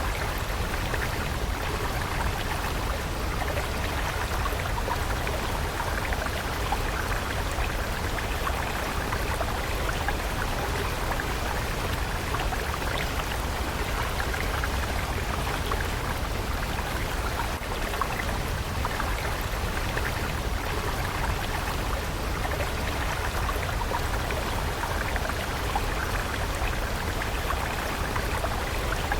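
A stream of water running steadily, a constant rush dotted with many small splashes and trickles.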